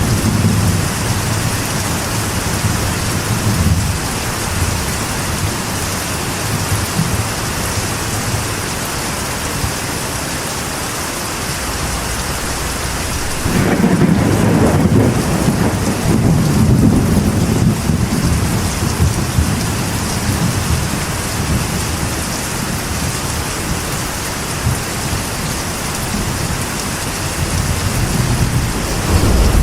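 Steady rain on a metal roof with rolls of thunder: a low rumble at the start, a louder one building about halfway through and lasting several seconds, and another beginning near the end.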